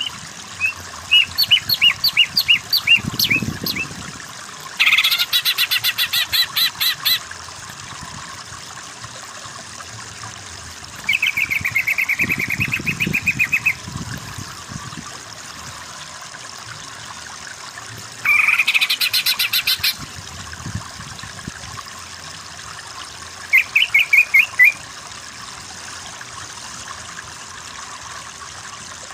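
Cucak ijo (greater green leafbird) singing in five separate loud phrases with pauses between them: a run of quick rising notes, a fast buzzy rattle, a level trill, another rattle, and a short burst of rising notes, over a steady faint hiss.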